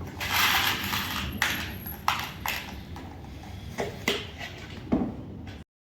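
A scraping hiss, then six sharp clicks and knocks spaced irregularly over about four seconds, cutting off suddenly near the end.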